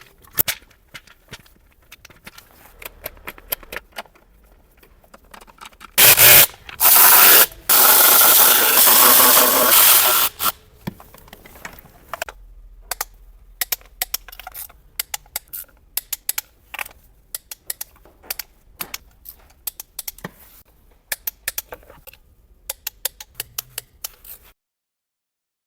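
Hand tools clicking, tapping and scraping on engine parts, with a loud spraying hiss in three pulses lasting about four seconds a third of the way in; the sound cuts off suddenly near the end.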